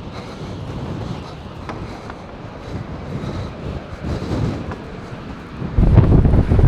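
Strong wind buffeting the microphone, a low rumbling rush that gusts much louder near the end.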